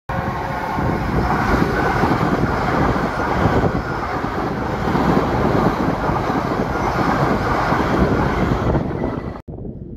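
Electric multiple-unit passenger train passing close below, a steady loud rumble and rush of its wheels on the rails, which cuts off abruptly near the end.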